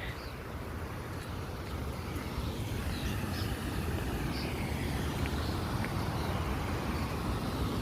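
Steady rushing of a waterfall, growing slightly louder, with a few faint high chirps over it.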